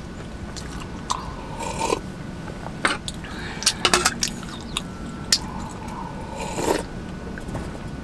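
Crunchy chewing of toasted bread, mixed with small clicks and clinks as a metal mug and a camp stove's grill grate are handled.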